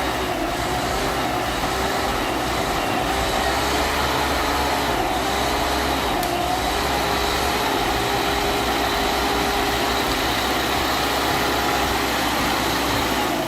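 Diesel engine of an LKT 81 turbo skidder running hard under heavy load: a steady drone whose pitch wavers slightly now and then.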